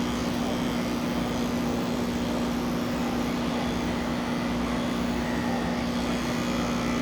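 Electric pet grooming clippers running steadily with a constant hum.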